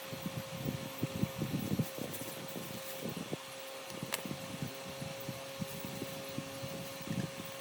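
A motor-driven machine running, with a steady hum over an irregular low rattle and a couple of sharp clicks.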